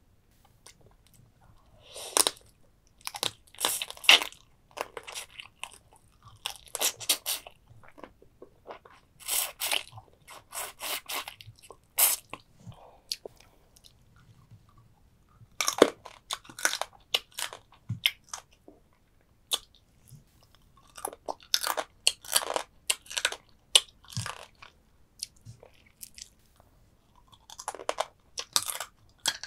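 Close-miked crunching and chewing on soy sauce-marinated stone crab, in bursts of crackly bites separated by short pauses.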